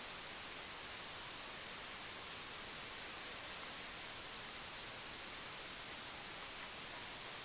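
Steady, even hiss, brightest in the treble, with no distinct sounds standing out.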